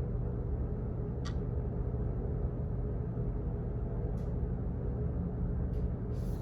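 Steady low office background rumble and hum, with a few scattered clicks over it: a sharp, lightly ringing click a little over a second in and fainter ones later.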